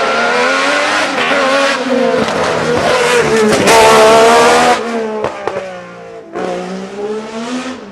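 Hillclimb racing car engine at high revs, its pitch rising and falling through gear changes. It is loudest about four seconds in as the car passes, then drops away with a few sharp cracks and comes back louder near the end.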